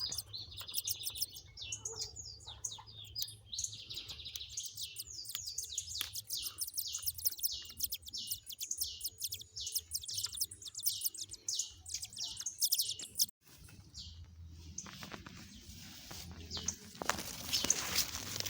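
Nestling birds chirping rapidly in a nest, a fast run of short, high, downward-sweeping peeps several a second. The peeps break off about two-thirds of the way through, and a rustling noise takes over toward the end.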